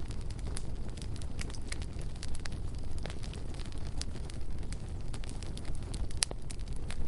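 Bonfire burning: a steady low rumble of flames with frequent sharp crackles and pops at irregular intervals, one louder pop about six seconds in.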